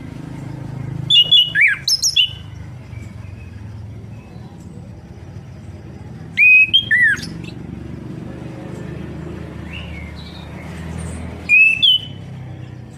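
Orange-headed thrush singing: three short bursts of quick, sweeping whistled notes about five seconds apart, over a steady low hum.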